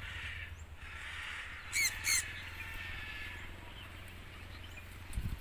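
Two short, harsh bird calls in quick succession about two seconds in, over a steady low rumble.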